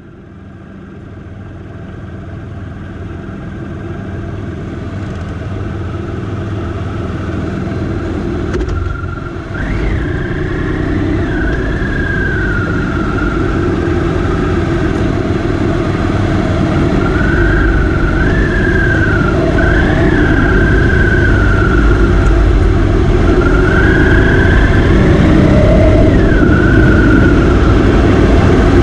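Motorcycle engine running, fading in from silence and growing steadily louder. From about ten seconds in, its pitch rises and drops again several times as it revs and changes gear.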